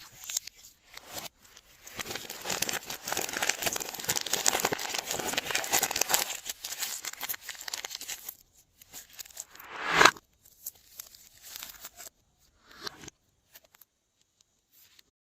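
Hands working glossy slime, stretching and squishing it with dense sticky crackling for several seconds, then one loud crackle about 10 seconds in and a few small clicks near the end.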